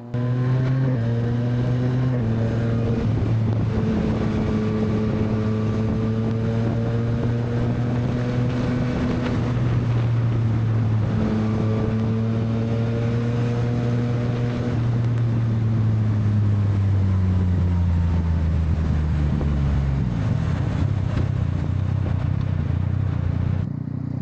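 Yamaha MT-09's three-cylinder engine running under way, with quick pitch steps in the first couple of seconds as it shifts. It then holds a steady, slowly climbing note, and its pitch falls away as the bike slows about 15 to 20 seconds in. Wind rushes over the microphone throughout.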